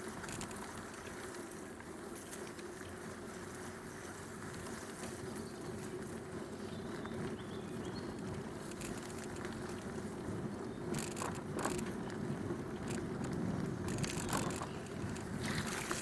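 A bicycle being ridden along a canal towpath: steady tyre and drivetrain noise, with bursts of clicking rattle from the bike about two-thirds of the way in and again near the end.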